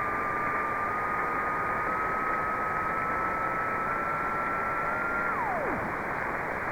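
Single-sideband radio receiver hissing on the RS-44 satellite's downlink, with a carrier whistle near 1 kHz that creeps up in small pitch steps, then slides sharply down and disappears about five seconds in.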